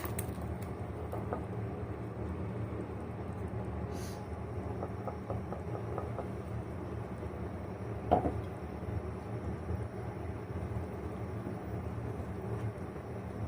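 A steady low hum with a few sharp clinks: a light click about four seconds in and a louder knock about eight seconds in.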